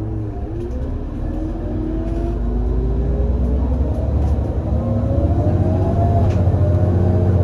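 Irisbus Citelis 18 GNC bus's IVECO Cursor 8 six-cylinder CNG engine pulling away under load, its note climbing in pitch and getting louder, dropping back briefly as the ZF Ecomat six-speed automatic gearbox changes up about four seconds in, then climbing again.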